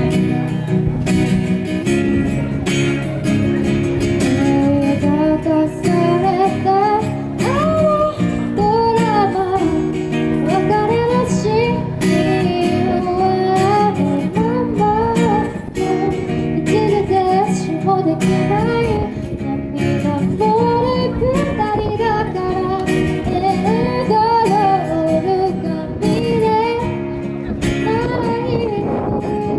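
Strummed acoustic guitar with a woman singing, the voice coming in about six seconds in and carrying a melody over the chords.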